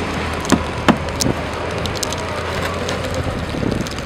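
Steady low hum of a vehicle running under a noisy outdoor haze, with a few sharp crackles in the first second and a half.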